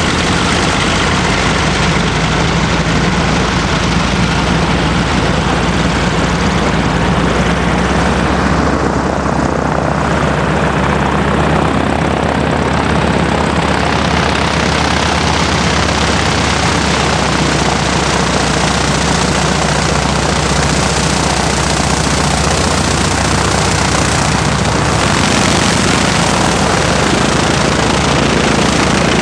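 Propeller engine of a wing-walking biplane running steadily at flight power, under a heavy, even rush of wind and airflow.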